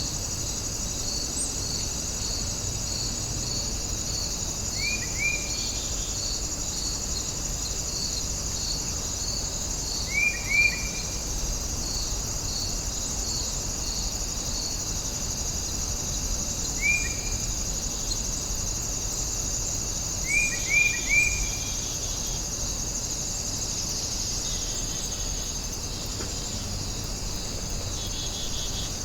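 Warm afternoon outdoor ambience: a steady high chorus of insects and crickets, with a pulsing chirp repeating about twice a second through the first half. A bird's short falling chirps come singly or in twos and threes, four times, standing out above the chorus.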